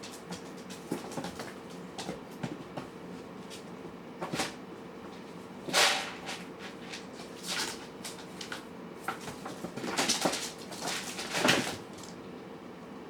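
Cats and kittens eating from food bowls: several short scrapes and clatters, the loudest about six seconds in and again around ten to eleven seconds, over a steady faint hum.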